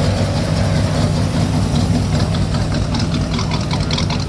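A classic car's engine running at low speed as the car rolls in, a steady deep rumble.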